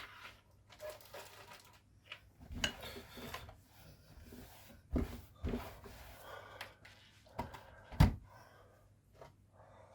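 Plastic parts of a coffee machine being handled on a workbench: scattered rustling and rubbing with several knocks, the sharpest about eight seconds in.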